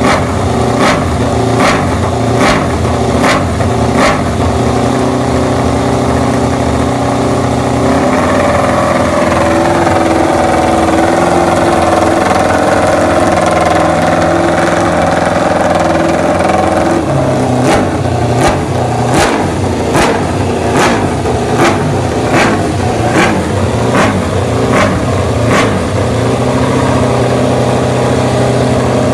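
Aprilia V4 racing motorcycle engine running through its exhaust, with sharp cracks roughly once or twice a second. About eight seconds in the revs rise and are held higher and steady for several seconds. Then the engine drops back to the crackling running.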